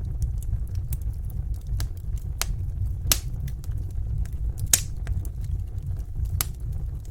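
Wood fire in a fireplace crackling, with irregular sharp pops over a low steady rumble; the loudest pops come about three seconds in and again near five seconds.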